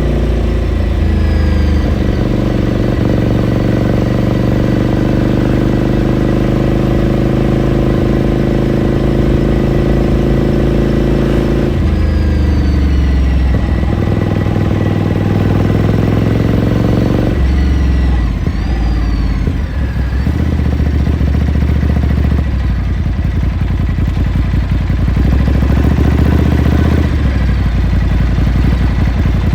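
2018 Ducati Scrambler Sixty2's air-cooled V-twin engine running under way, heard onboard. The engine note holds steady for long stretches and changes pitch several times, with short glides up or down at each change.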